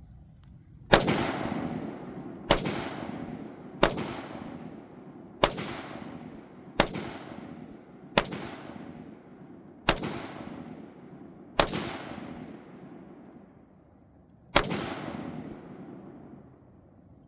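DS Arms AR-15 rifle fired nine times, single shots about a second and a half apart, each followed by a fading echo; the last shot comes after a longer pause of about three seconds.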